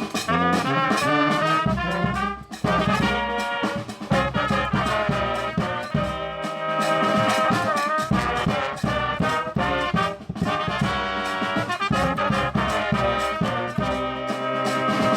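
Brass band playing: trumpets and trombones in several moving parts over drums.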